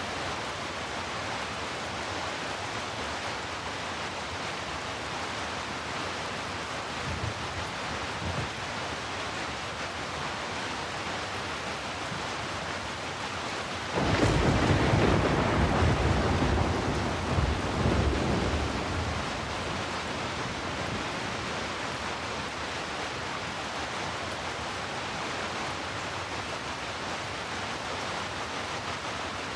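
Heavy rain falling steadily as a dense, even hiss. About halfway through a thunderclap breaks in suddenly and rolls for about five seconds before fading, after a fainter low rumble of thunder earlier on.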